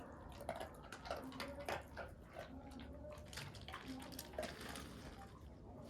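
Faint, irregular wet mouth sounds from a dog, a quick run of small smacking clicks as it licks and chews a reward.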